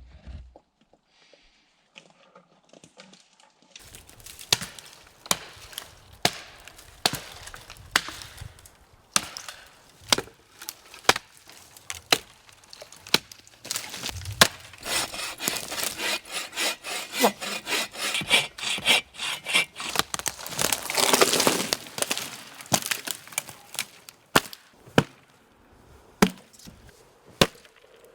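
Dry wood being broken and worked by hand: a long run of sharp cracks and splintering snaps, irregularly spaced, with a denser stretch of scraping and rubbing in the middle.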